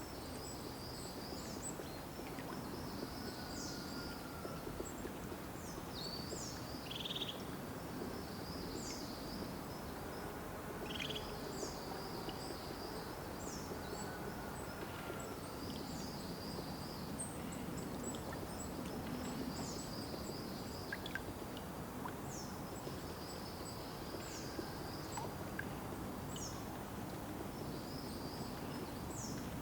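Small birds singing, a short high chirping call repeated every second or two over a steady outdoor rushing background.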